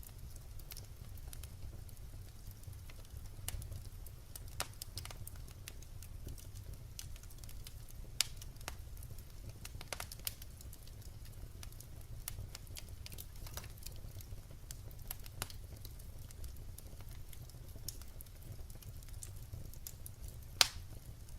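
Wood fire burning: a low steady rumble of flames with scattered sharp crackles and pops from the burning logs, one loud pop near the end.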